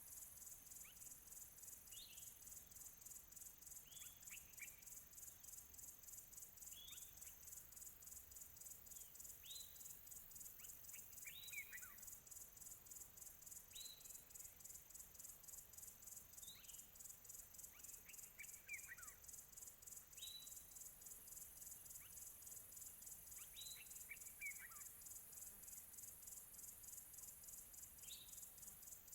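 Faint crickets chirring in a steady, finely pulsing high chorus, with distant birds giving short, falling calls about every two seconds.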